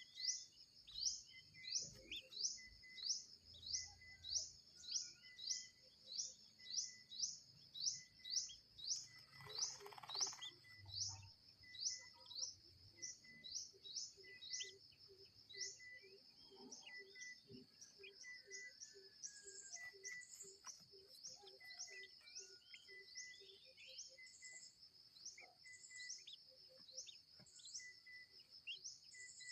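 Birds chirping: a rapid, regular series of short rising chirps, about two a second, thinning out about halfway through into scattered calls, over a steady high-pitched drone.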